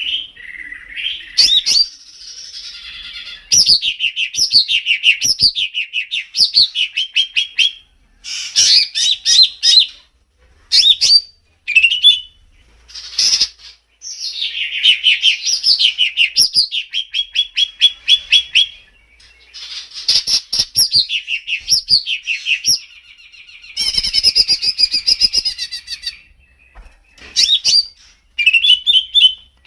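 Songbird singing loud, fast phrases of quickly falling whistled notes and rapid trills, broken by short pauses: a masteran song recording of the kind played to train caged songbirds.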